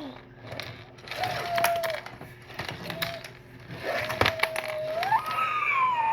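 Drawn-out, voice-like tones, held steady a few times and then rising about five seconds in before sliding slowly down, among sharp clicks of plastic Lego pieces being handled.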